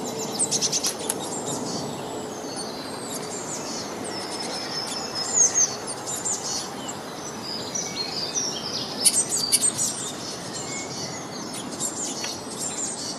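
Several small birds chirping and twittering, with short high calls and quick trills, over a steady background of outdoor ambient noise.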